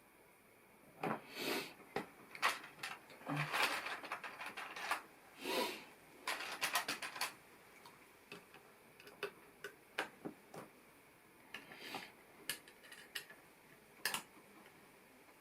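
Plastic LEGO pieces clicking and clattering as they are handled during a build: irregular sharp clicks with a few short rustles, busiest in the first half and thinning out later.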